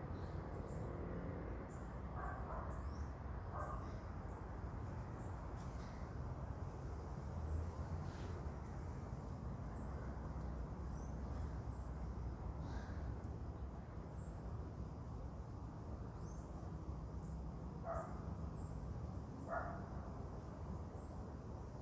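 Marmosets giving short, very high-pitched chirps at irregular intervals, over a steady low background hum. A few lower chirps come near the start and again near the end.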